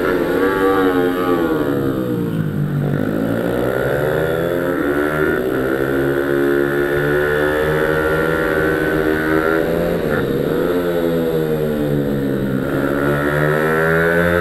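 Pit bike engine revving hard, its pitch dropping and climbing again several times as the rider brakes into corners and accelerates out of them.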